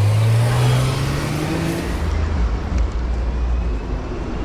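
A motor vehicle accelerating close by, its engine note rising in pitch over the first two seconds with a wide rushing hiss that cuts off about two seconds in, then a steady low rumble of street traffic.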